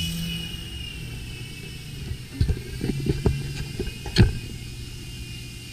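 Small toy helicopter's two electric motors and rotors running in flight with a steady high whine, its pitch dipping slightly about two seconds in; the motor runs again after a torn blue wire was taped back. Several sharp knocks come in the middle, the loudest a little after four seconds in.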